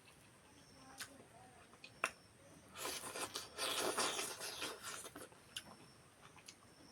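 Close-up eating sounds: two sharp clicks, then about two seconds of noisy chewing and scraping that trails off.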